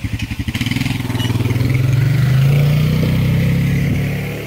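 A motor vehicle's engine with a fast, even pulsing beat, swelling louder and rising in pitch to a peak about halfway through, then easing off as it passes by.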